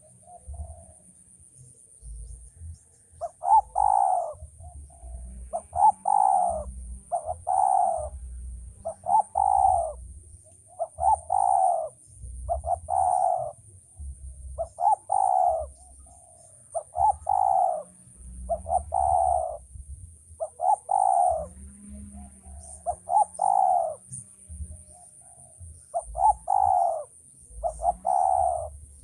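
Spotted dove cooing: the same coo phrase is repeated over and over, about one every one and a half to two seconds, starting a few seconds in.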